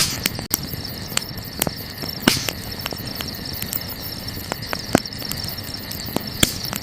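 Wood fire crackling, with irregular sharp pops, a few of them louder, over a steady, high, rapidly pulsing chirring of night insects.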